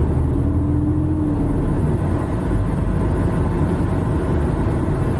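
Semi-truck diesel engine running steadily, heard from inside the cab as a low, even drone while the truck sits or creeps in slow traffic. A faint steady tone sounds for about a second and a half near the start.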